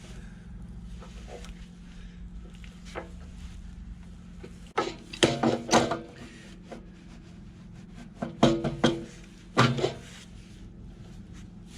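Hose fitting and parts being handled and fitted onto a pressure washer pump: short bursts of knocks and clicks about five seconds in and again around eight and a half and nine and a half seconds, over a steady low hum.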